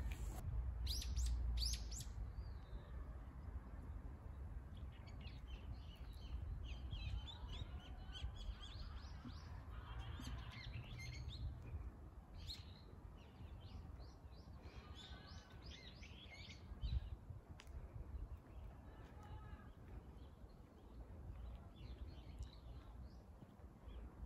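Small birds chirping and trilling again and again among the trees, over a low rumble.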